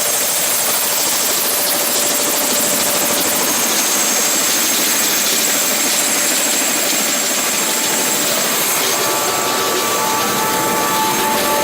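Helicopter in flight, heard from on board: a steady, loud rotor and engine noise with no change in level, and a faint steady whine joining about nine seconds in.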